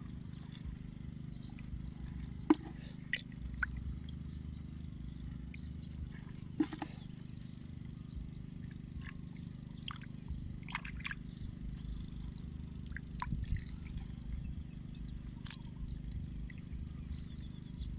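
Scattered small splashes and sloshes of water with sharp clicks, over a steady low hum and a faint repeating high chirp.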